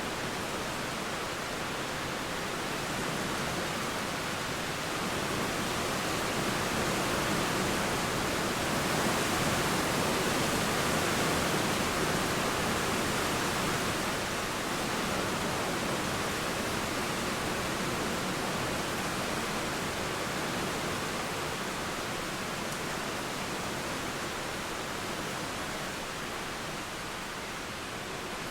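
Steady rain with flowing river water, a dense even hiss that swells a little around the middle.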